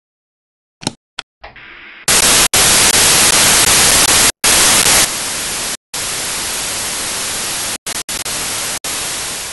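Loud static hiss, like an untuned TV or radio, that starts abruptly after a couple of short clicks. It cuts out sharply several times, drops to a lower level about halfway through, and fades away at the end.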